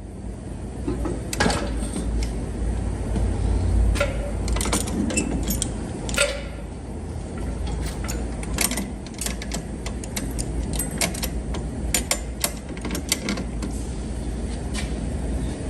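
Bodywork tools clinking and tapping against metal: scattered sharp clicks and light taps over a steady low rumble.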